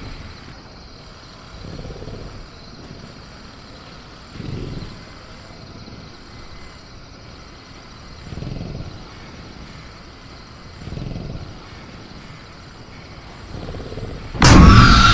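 Sound-effect velociraptor cage ambience: a steady low rumble with faint high insect chirring, and soft low swells every two to four seconds. Near the end a sudden loud crash of the cage being rattled, with a bending shriek-like tone in it.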